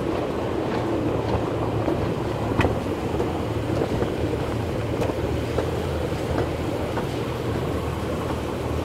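Amusement-park ride train rolling along its track, heard from an open carriage: a steady rumble with a few faint, scattered clicks.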